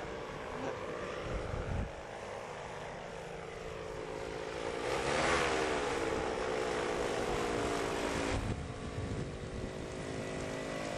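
Paramotor engine and propeller running steadily. About five seconds in the sound swells and its pitch rises and then falls, then it settles again.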